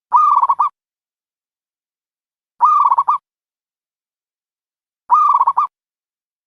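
Dove cooing: three short trilled coos about two and a half seconds apart, each a quick run of pulsed notes.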